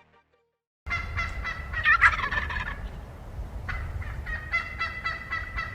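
Turkey gobbling, starting about a second in with a rattling burst and further calls, over a steady low background; it cuts off suddenly at the end.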